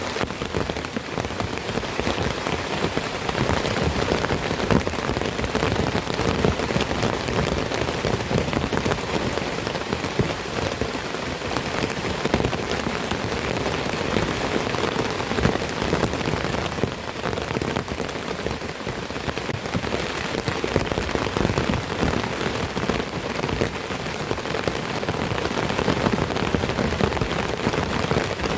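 Heavy tropical-style downpour: a dense, steady patter of raindrops that does not let up.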